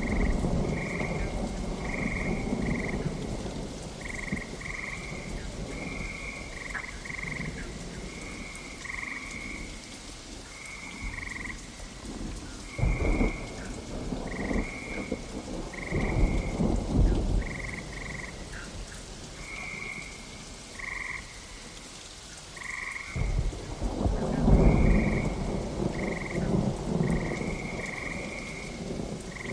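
Rain falling steadily while frogs call in short croaks about once a second, with rolling rumbles of thunder that swell three times, the loudest near the end.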